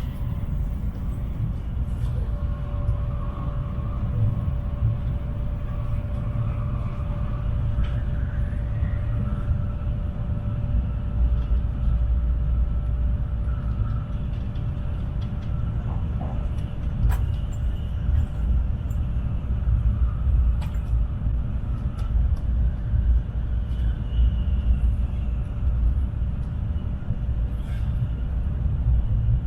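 Tokaido Shinkansen running at speed, heard inside the passenger cabin: a steady low rumble with a constant faint hum over it and occasional light clicks.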